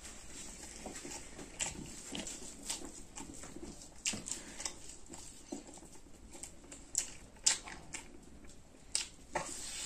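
Close-up eating sounds of a person chewing fatty buffalo meat eaten by hand: wet chewing and lip-smacking, with scattered short clicks and smacks at irregular intervals.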